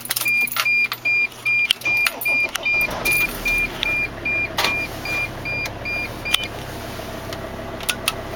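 Dashboard warning chime beeping evenly, about three times a second, with a few clicks. About three seconds in, the 2005 Dodge Sprinter's straight-five turbo diesel starts and settles to a steady idle. The chime stops about six and a half seconds in.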